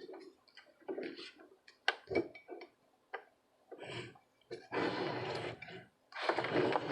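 Small objects handled on a workbench while a weight is set in place to hold a circuit board: scattered light clicks and knocks, then two longer scraping, rustling sounds in the second half.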